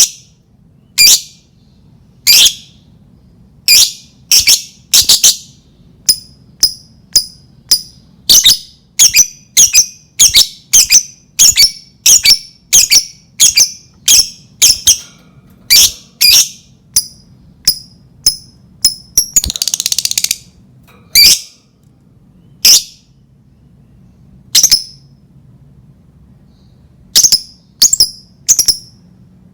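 Lovebird giving sharp, high single chirps at an uneven pace, one to three a second, with a harsh screech lasting about a second roughly two-thirds of the way through and a couple of short pauses near the end.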